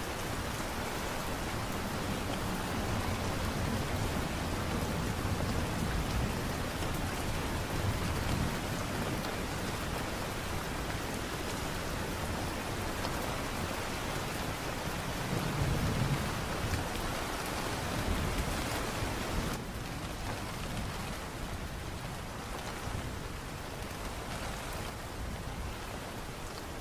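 Steady rain falling, an even hiss, with a few low rumbling swells along the way. The rain thins a little about twenty seconds in.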